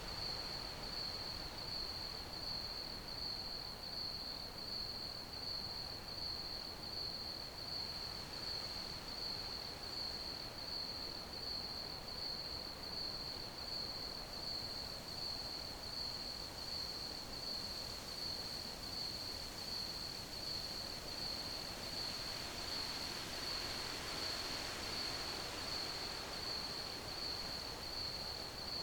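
Crickets chirping in a steady, high-pitched, evenly pulsing chorus, a couple of pulses a second, over a soft background hiss.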